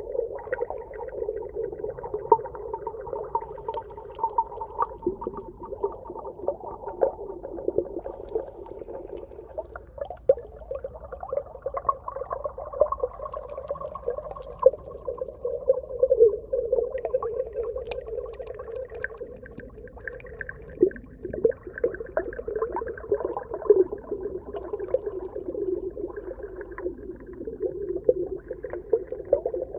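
Underwater ambience: long, wavering moan-like tones that drift slowly in pitch, a higher one coming and going, over a steady scatter of clicks and crackles.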